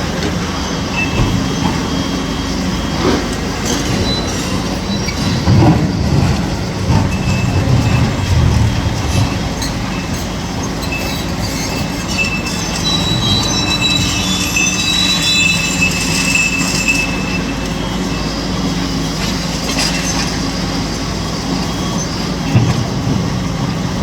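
Kobelco SK850 demolition excavator working: its diesel engine runs steadily under high-pitched metallic squeals that come and go, loudest about two-thirds of the way through, with scattered knocks and clanks.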